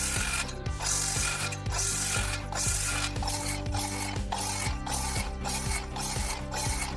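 Circular saw cutting fiber cement siding, a rasping grind broken by brief gaps about once a second, with background music beneath.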